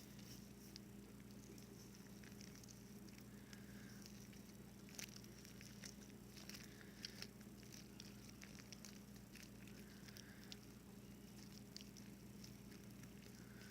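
Faint sticky squishing and small clicks of glue slime being mixed and kneaded by hand, a few sharper clicks about midway, over a steady low hum.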